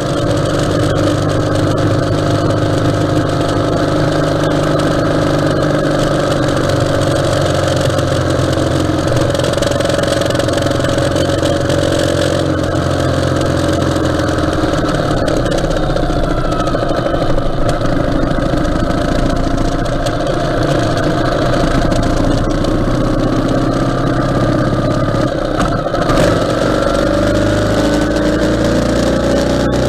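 Ural sidecar motorcycle's air-cooled flat-twin engine running on the road, its pitch slowly rising and falling as speed changes, with steady wind and road noise.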